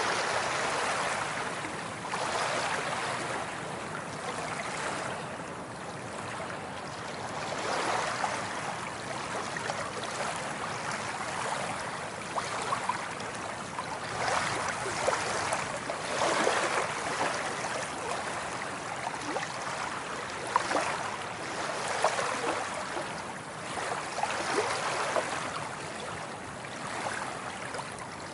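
Waves washing in and out on a shore, the rush of water swelling and easing every few seconds, with small splashes and gurgles.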